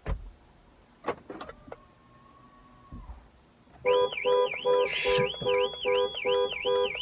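Car alarm going off about four seconds in: a high siren tone rapidly warbling up and down, over steady lower tones pulsing in time. Before it come a few knocks and a short steady tone.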